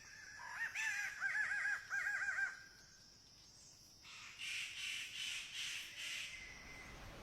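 A bird calling: a quick run of about eight repeated ringing, arched notes, then, after a pause of about a second and a half, a second run of about five harsher, higher calls.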